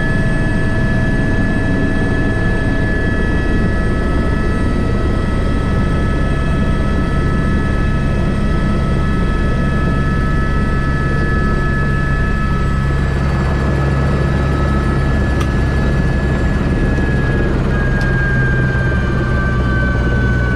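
Airbus H125 (AS350 B3) helicopter, heard from the cockpit: the low beat of the rotor under a steady high turbine whine. The whine drops slightly in pitch over the last few seconds.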